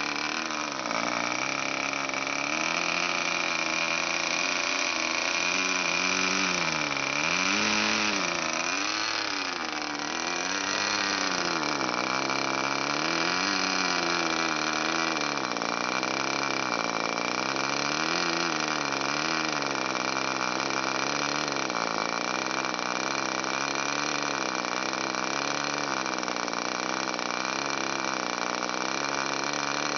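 K&B .40 glow-fuel model aircraft engine running steadily with its propeller, the engine speed rising and falling in a slow, regular waver. It is still being run in and tuned, and it dips more deeply about seven to ten seconds in.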